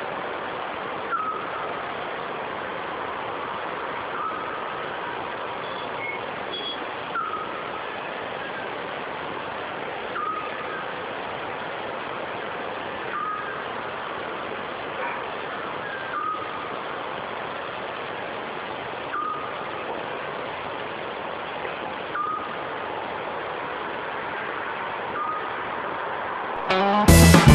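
Eurasian scops owl calling: a single short whistled note repeated at an even pace, about one every three seconds, over a steady background hiss.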